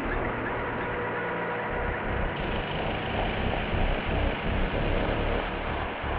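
A steady, dense rumbling noise with faint held tones running through it.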